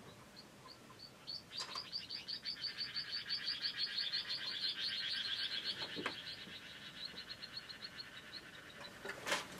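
A bird calling: a few spaced high notes that speed up into a long, rapid, even trill, which thins out and slows after several seconds. A sharp click comes near the end.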